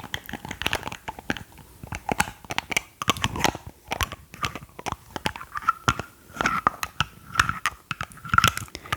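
Close-miked ASMR trigger sounds: a dense, irregular run of crisp clicks and crackles, with a faint wavering squeak about halfway through.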